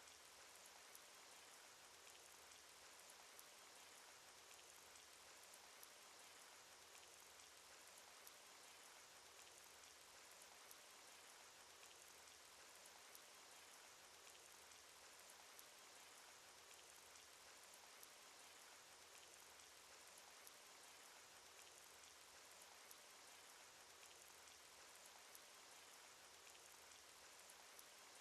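Cartoon rain sound effect: a faint, steady hiss of rainfall with scattered individual drop ticks, unchanging throughout.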